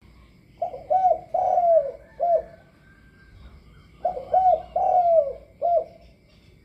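A decoy dove cooing: two phrases, each of four low coos with the third one drawn out longest, about three and a half seconds apart.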